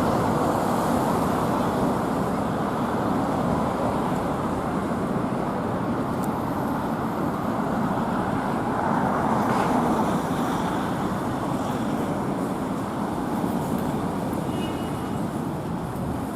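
Steady city road traffic noise: a continuous rush of passing vehicles.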